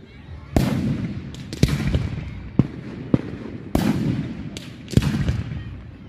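Display fireworks going off: about seven sharp bangs of aerial shells bursting, roughly one a second, each followed by an echoing rumble.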